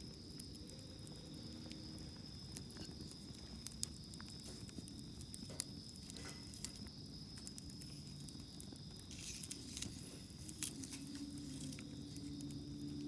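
Wood campfire burning, with irregular sharp crackles and pops over a low rustling of flames. A steady high insect trill runs underneath.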